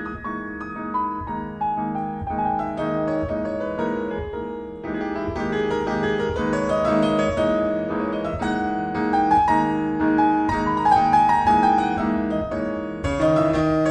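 Solo piano playing a flowing melody over held low notes, the melody stepping down, then climbing and falling again.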